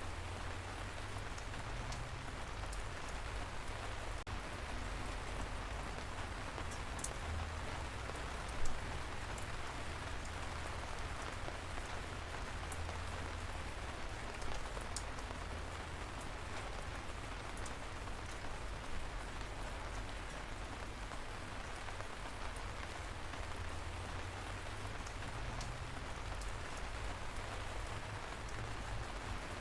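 Steady light rain falling, an even hiss with scattered drops ticking close by. One drop taps louder about nine seconds in.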